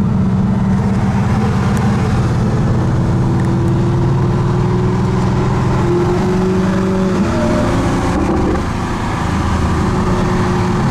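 Car engine running steadily with road noise, its pitch climbing slowly, then easing off about eight seconds in before building again.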